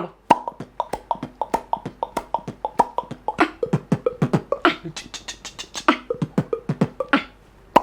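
Beatboxer's mouth making tennis pops in a quick rhythmic beatbox pattern: a run of short, sharp pops, several a second, many with a hollow pitched ring. Each pop comes from the lower lip held over the upper teeth, suction built by inhaling through the mouth, then the jaw dropped suddenly. The pattern stops shortly before the end.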